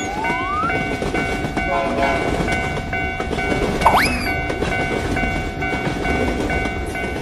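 Train running past with a steady rumble and a held, multi-note tone throughout. Two quick rising swoops in pitch come at the start and about four seconds in.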